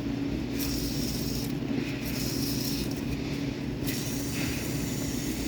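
Hiss of cleaner and air being forced through transmission cooler lines, coming and going in stretches of about a second, over a steady low hum.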